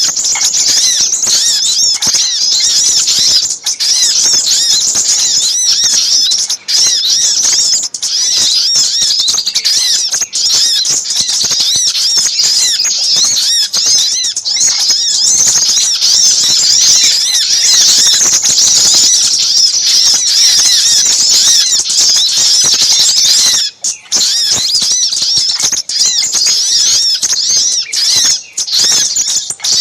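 A loud, dense chorus of small birds: spiderhunter calls mixed with minivet calls, overlapping high rapid chirps with hardly a break, as used in a bird-lure recording. There is a short gap about 24 seconds in.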